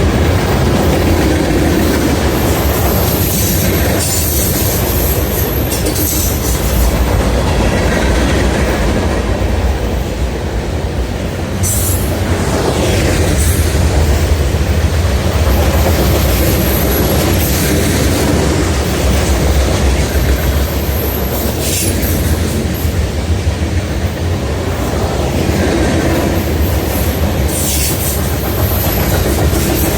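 Freight train cars rolling past at close range with a steady rumble and clickety-clack over the rail joints. Short high-pitched wheel squeals come and go several times.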